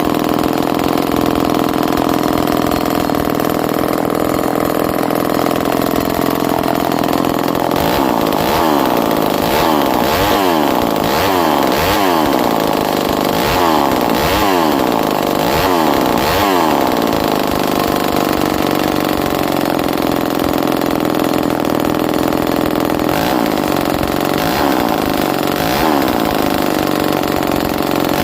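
Vintage Lombard Super Lightning two-stroke chainsaw engine running steadily. From about eight seconds in it is revved up and let back down about once a second for several seconds, then settles, with a few more revs near the end.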